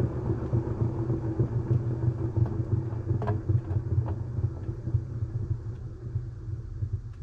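Washing machine running with a steady low rumble from its motor and drum, with a few faint clicks. The rumble winds down near the end.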